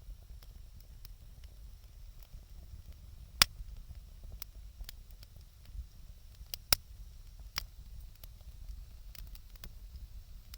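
Wood fire crackling: scattered sharp pops and snaps at irregular intervals, the loudest about three and a half seconds in, over a steady low rumble.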